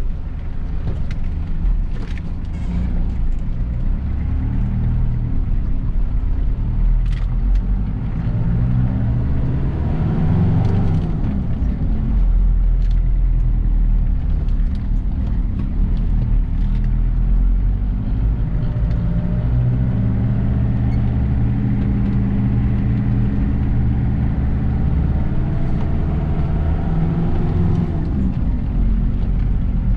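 Mitsubishi Pajero's 4D56 four-cylinder turbo-diesel engine pulling under acceleration while driving. It rises in pitch, drops about eleven seconds in as it shifts up, then climbs again and drops once more near the end.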